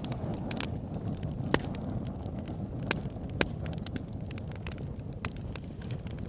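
Wood fire burning in a fireplace: a steady low rumble with sharp crackles and pops scattered through it, three louder pops standing out around the middle.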